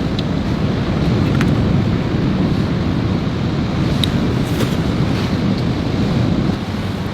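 Steady rumble of wind and waves in a storm, with a few scattered sharp ticks on top.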